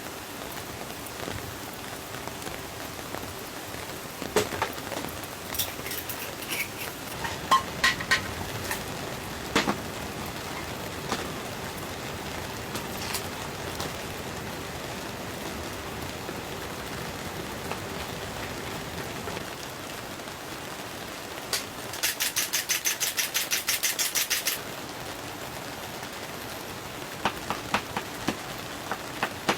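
Steady rain falling on the tent, with scattered sharp clicks and knocks. About two-thirds of the way through comes a fast rattle of about eight clicks a second lasting a couple of seconds.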